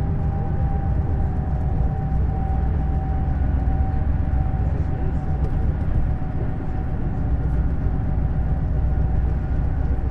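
Neoplan Skyliner N 1122/3C double-deck coach driving at a steady pace: a constant low drone of engine and road noise with a steady mid-pitched whine over it.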